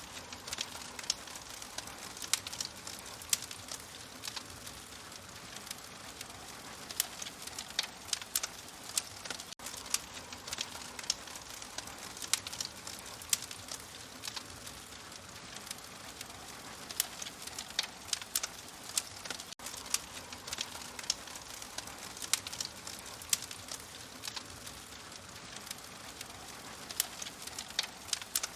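Open wood fire crackling: irregular sharp pops and snaps over a steady soft hiss.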